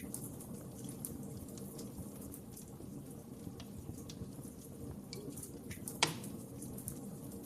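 Wood fire burning in a fireplace: a steady low rumble of flames with scattered small crackles, and one sharp pop about six seconds in.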